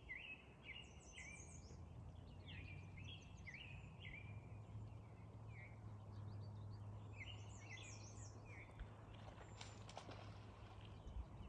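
Faint bird chirping: many short, high chirps in quick runs, busiest in the first few seconds and again about seven seconds in, over a low steady hum.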